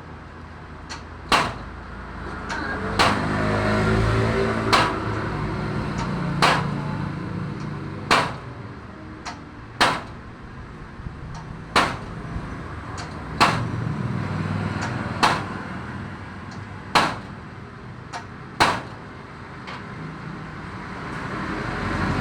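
Hammer blows struck at an even pace, roughly one every second and a half to two seconds, each a sharp knock with a short ring, typical of hammering a motorcycle's front shock absorber during repair.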